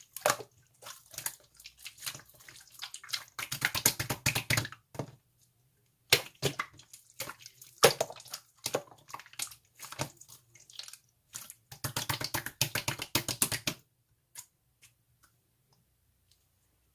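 Slime being squished and kneaded by hand, making bursts of wet crackling and popping clicks that stop about fourteen seconds in.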